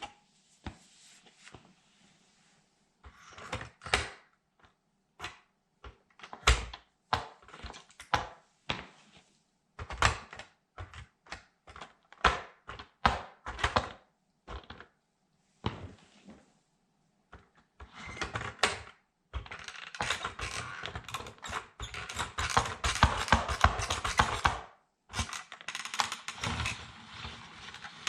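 Plastic toy military truck being crushed underfoot by a sandal: a string of sharp cracks and snaps, thickening about two-thirds of the way in into dense, continuous crunching and crackling.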